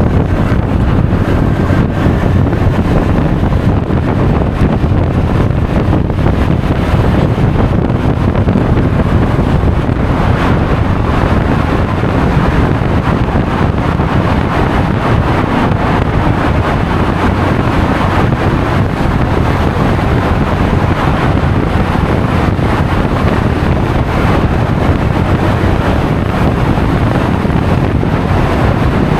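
Steady wind noise buffeting the action camera's microphone while riding a Honda Forza 350 scooter at speed, a loud, even rush heavy in the lows with the ride's road noise underneath.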